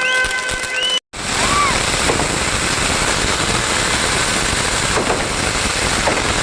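Fireworks going off in a dense, rapid crackle, with a few short rising-and-falling whistles. Just before it, about a second in, an abrupt cut ends a stretch of steady whistling tones.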